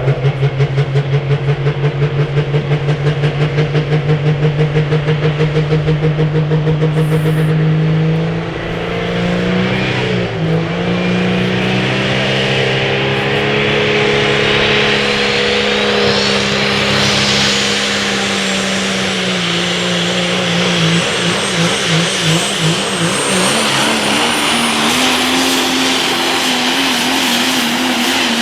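A super stock diesel pulling truck's multi-turbocharged engine under hard throttle. For about the first eight seconds it runs with a pulsing note. Then it climbs, with a rising turbo whistle that holds high and steady for the rest of the run.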